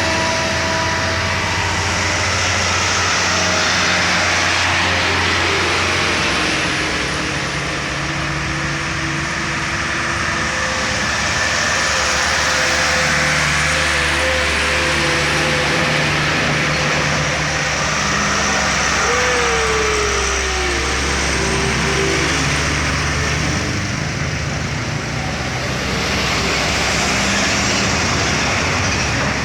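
Loaded sugarcane trucks climbing a steep bend at full throttle, their engines running hard and steadily. The engine note steps up and down as they labour up the grade.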